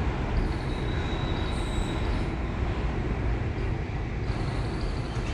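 Steady city traffic noise with a heavy low rumble. A thin high whistle sounds for about a second, around one to two seconds in.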